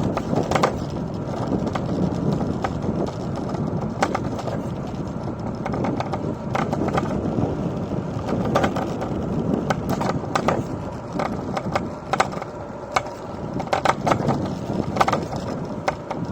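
E-scooter's wheels rolling over rough city pavement: a steady rumble with frequent sharp clicks and rattles as it goes over bumps and cracks.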